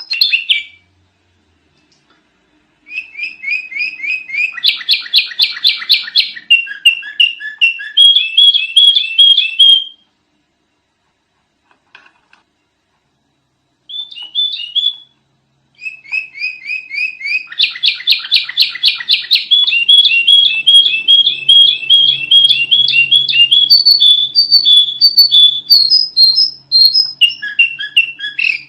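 Sooty-headed bulbul (kutilang) singing in loud, fast chattering runs of repeated chirps. The runs are several seconds long, with a few silent pauses between them.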